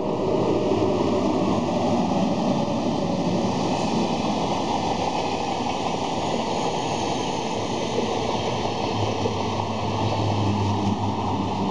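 VR double-deck electric passenger train running past on the rails: a steady rumble and hiss of wheels and carriages, with a low hum coming in near the end.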